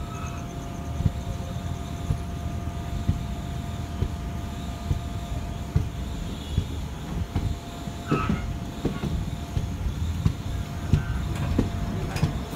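Passenger train coaches rolling out of a station, heard from an open door: a steady low rumble with irregular wheel clacks and knocks over rail joints as the train accelerates.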